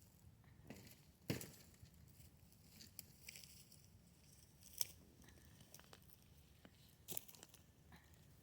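Faint sounds of a duck being skinned by hand: a few sharp snaps and quiet tearing as skin is pulled from the carcass, with occasional scissor snips, spaced several seconds apart over near-silent background.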